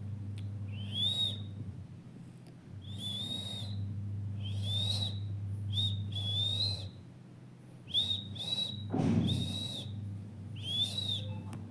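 An Indian parrot giving about nine short, shrill calls, some in quick pairs, over a steady low hum.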